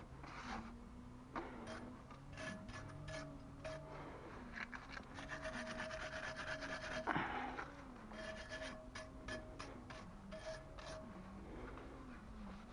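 Scraping and rubbing while scraps and debris are cleaned out after a piece is pulled out, in many short strokes and clicks, with a faint whine that starts and stops.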